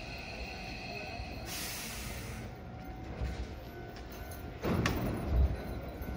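Hankyu 8000-series electric commuter train standing at a platform with a low rumble, a short burst of air hiss about a second and a half in, then its sliding doors opening with a sudden clunk near the end.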